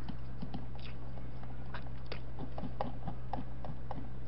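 Mouth sounds of someone chewing food close to the microphone: soft, irregular wet clicks and smacks, over a steady low electrical hum.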